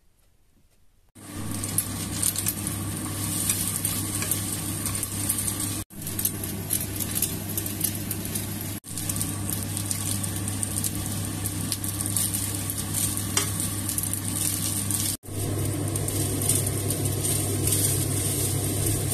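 Rice and egg sizzling as they fry in a pan, stirred and scraped with a slotted spatula, with a steady low hum underneath. The sizzle starts about a second in.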